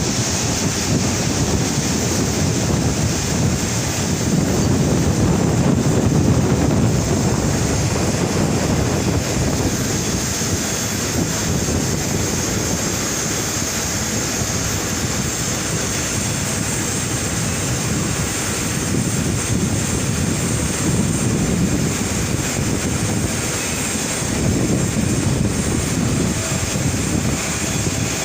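Jet engines of an Airbus A330-300 running at taxi power: a steady rush with a high, even whine, while gusts of wind buffet the microphone.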